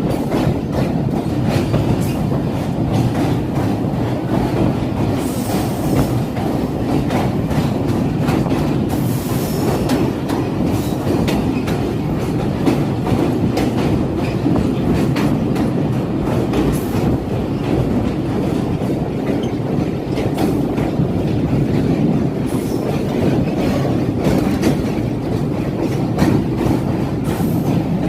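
Train running on the rails: a steady heavy rumble of wheels with a dense clatter of clicks from the wheels over the track, and a few brief high hissing sounds along the way.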